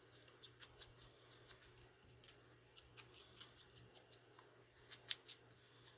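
Faint, irregular snips of scissors cutting paper, several clicks in quick clusters.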